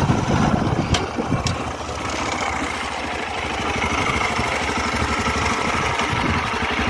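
A vehicle's engine running steadily at low revs, with two sharp clicks about a second and a second and a half in.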